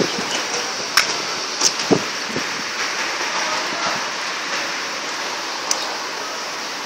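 Steady rain falling, with a few sharp taps of drops landing about one and two seconds in and again near the end.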